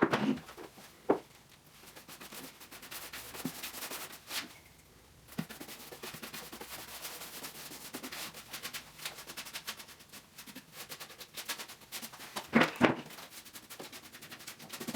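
Paintbrush stroking polyurethane onto a wooden roof, a quick rasping swish of bristles on the boards. It pauses briefly about four seconds in, and there are a few louder knocks about twelve seconds in.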